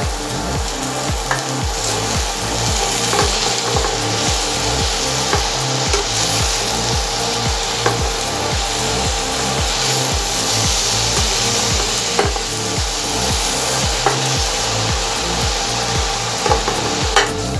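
Chopped spinach sizzling as it fries in a stainless-steel pan, stirred and turned over steadily with a metal spoon that scrapes against the pan and knocks it now and then.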